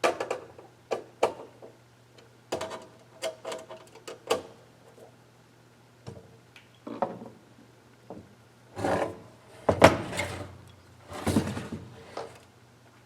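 Hands handling a small electronic unit and its parts on a workbench: a run of sharp clicks and knocks, then several longer scraping rubs a few seconds later.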